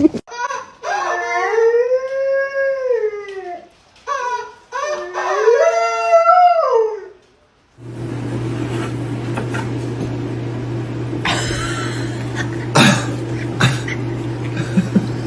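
A dog howls twice, two long howls that rise and then fall in pitch. After a pause, a steady low hum follows, with a few knocks in it.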